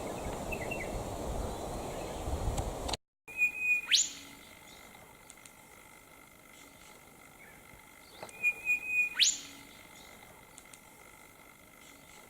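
A songbird calling twice, about five seconds apart: each call is a short held whistle followed by a fast upward-sweeping whistle. Before this, there is a few seconds of outdoor background with faint chirps.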